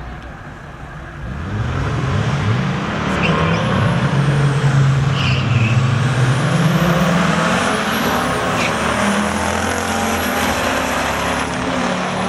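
Diesel engine pulling hard under acceleration on a drag strip. Its note climbs in pitch in stages and grows loud about a second in, with a faint high whistle rising and falling above it.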